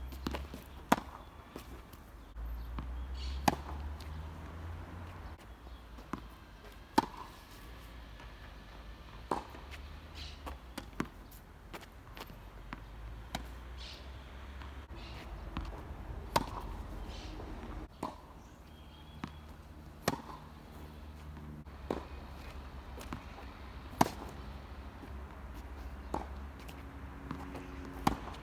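Tennis ball struck by a racket strung with Tecnifibre Black Code 1.24 polyester at 44 lb, in a rally: a sharp pop from each hit every 3 to 4 seconds, with fainter ball bounces and hits in between over a steady low rumble.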